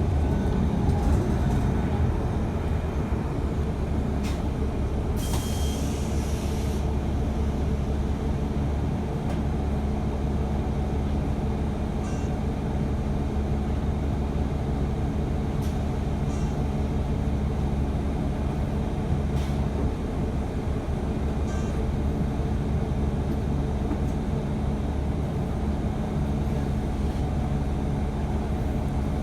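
City bus heard from inside, its engine running with a steady low drone. There is a short hiss of air about five seconds in, and a few faint rattles and clicks.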